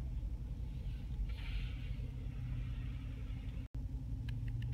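The 6.4-litre Hemi V8 of a 2017 Jeep Grand Cherokee SRT idling, heard from inside the cabin as a low, steady hum.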